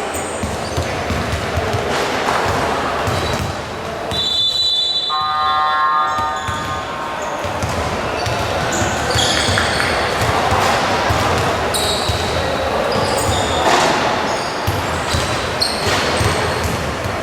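Basketball game heard from the stands of an indoor gym: repeated ball bounces and short sneaker squeaks over steady crowd noise. A held pitched tone sounds for about two seconds, about four seconds in.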